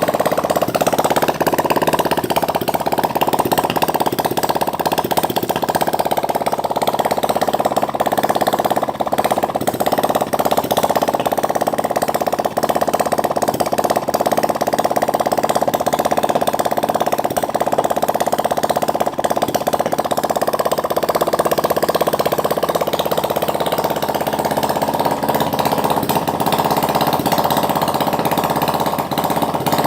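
A 175cc water-cooled engine running steadily at an even speed.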